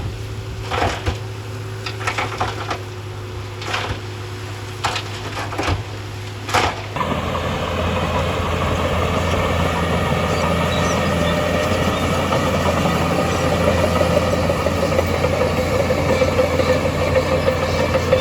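Heavy earthmoving machine's diesel engine running: a steady low hum with scattered sharp knocks, then about seven seconds in the sound switches abruptly to a louder, rougher engine that runs steadily.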